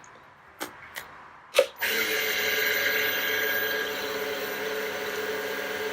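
A few sharp clicks and knocks, then about two seconds in a wood lathe starts and runs steadily at about 2,000 rpm, a motor hum and whine with a hiss of mesh sandpaper on the spinning pen blank.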